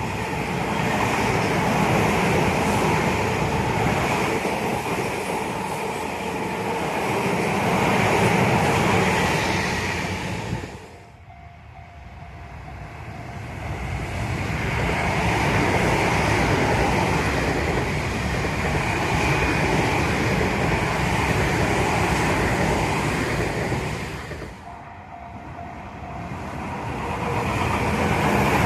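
Tobu Tojo Line electric commuter trains passing, with steady wheel-on-rail running noise and some clickety-clack. The sound drops away sharply twice, about 11 and 24 seconds in, and builds again each time as the next train approaches.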